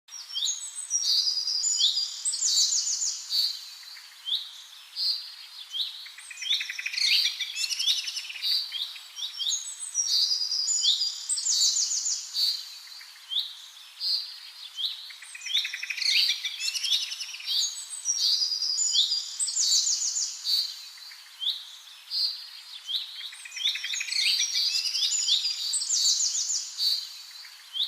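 Several songbirds singing together: short high chirps repeated about once a second, overlapping with fast trilled phrases that come and go every few seconds.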